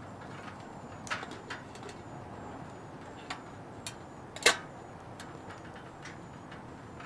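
Wood fire crackling in a Petromax Atago fire pit: irregular sharp pops and snaps over a steady low hiss, the loudest pop about four and a half seconds in.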